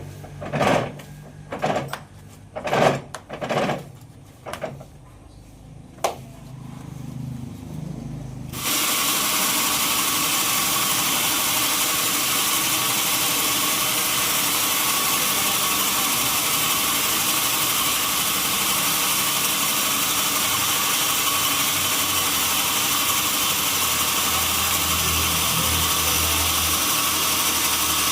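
A series of short knocks, then about a third of the way in the sawmill's saw machinery starts suddenly and runs with a loud, steady whirring noise.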